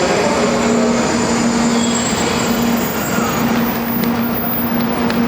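Train running: a steady rumble with a constant low hum.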